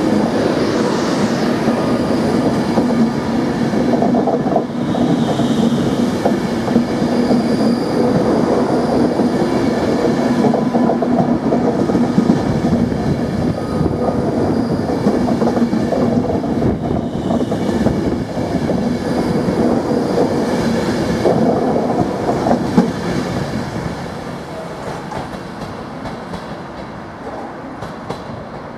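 Class 390 Pendolino electric train running past close by, a steady rumble of wheels on rails with a low hum. The sound fades over the last few seconds as the rear of the train draws away.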